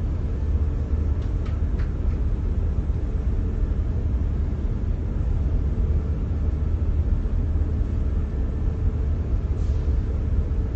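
HVAC chiller and fan-coil equipment running with a steady low hum, with a few faint ticks about a second or two in.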